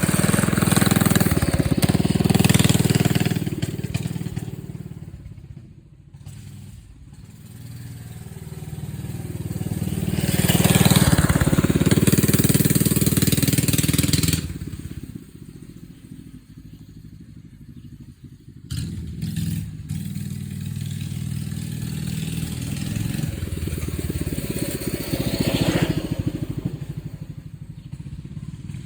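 Minibike's 212cc single-cylinder four-stroke engine running while ridden around. It swells and fades as it comes and goes, drops off suddenly about 14 seconds in, then picks up again a few seconds later and runs steadily.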